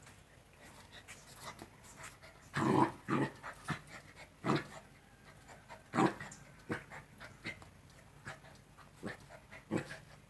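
Two-month-old Rottweiler puppies making short, irregular dog sounds as they play, loudest a little under three seconds in.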